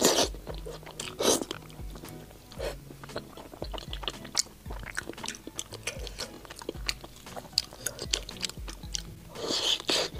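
Close-miked wet chewing and biting of a soft, fatty braised pig's trotter: many quick sticky smacking clicks, with a few louder bites near the start, about a second in and near the end. Faint background music plays underneath.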